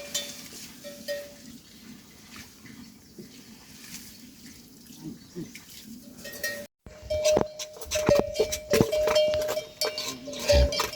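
Livestock bells clinking and ringing, faint at first. They drop out briefly just before seven seconds in, then come back louder with many clinks.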